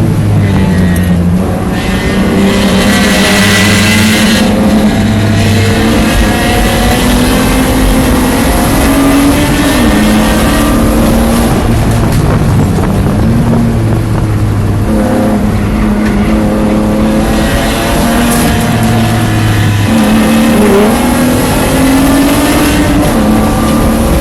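The straight-six engine of a 1993 BMW 325is race car running hard, heard from inside the car. Its pitch repeatedly climbs and then drops sharply, with the biggest drops about half a second in, about ten seconds in and about twenty seconds in, as the driver goes up through the gears and lifts or brakes for corners.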